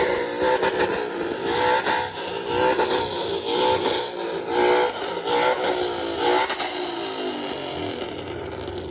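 A car engine revved again and again in short bursts, its pitch rising and falling with each one, slowly getting fainter.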